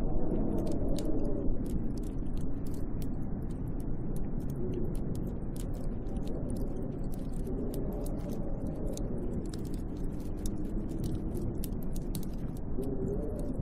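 Snowstorm wind blowing steadily with a low, moaning howl that slowly rises and falls in pitch, and a scatter of tiny ticks throughout.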